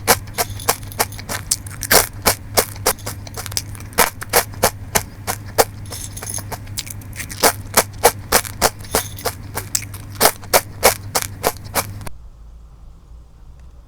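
Close-up crunching and chewing of a hard, dry red caviar rusk: dense, irregular sharp crunches, several a second, that stop abruptly about a second before the end.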